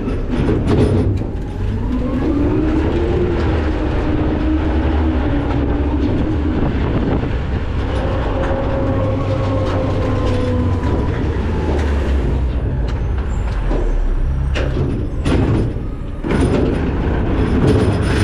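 McNeilus ZR rear-loader garbage truck running with a steady low rumble, and a whine that rises and holds twice. A few sharp knocks come near the end.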